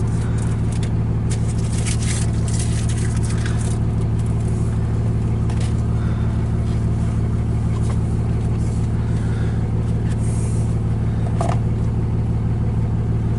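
Car engine idling, heard from inside the cabin: a steady low hum that does not change, with a few light clicks and rustles in the first few seconds.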